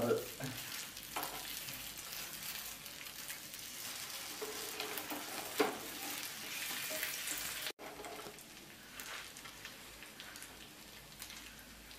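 Masala-coated boiled egg halves sizzling in oil in a shallow nonstick frying pan, with a few sharp clicks of a spatula against the pan as the pieces are turned over. About eight seconds in the sizzle breaks off for a moment and carries on quieter.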